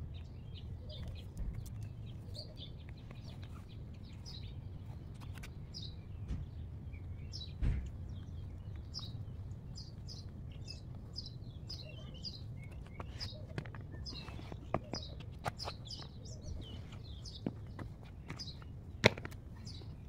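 A small bird chirping over and over, many short high notes in quick succession, over a steady low outdoor rumble. A few sharp knocks break in, the loudest near the end.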